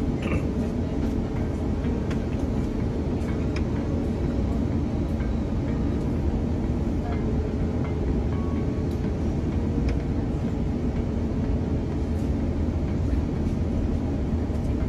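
Steady cabin noise inside an Airbus A350-900 with its engines running: a low rumble with a constant hum and occasional light rattles, neither rising nor falling.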